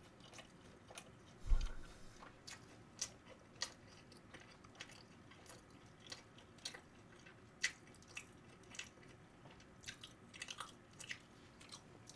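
Chewing a mouthful of glazed fried chicken: a run of small, crisp mouth clicks and crunches. A dull thump comes about one and a half seconds in.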